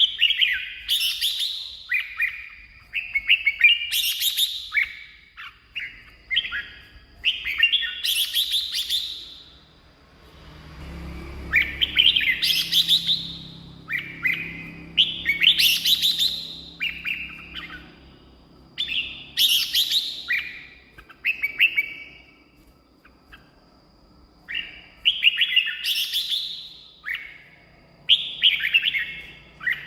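Red-whiskered bulbul singing: short, rich warbled phrases repeated every second or two, with a brief pause about ten seconds in.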